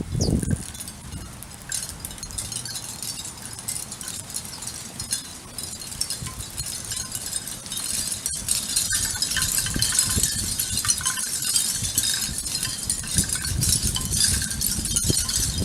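Outdoor backyard ambience: a steady high hiss that grows louder about halfway through, with faint short chirps and a few low thumps.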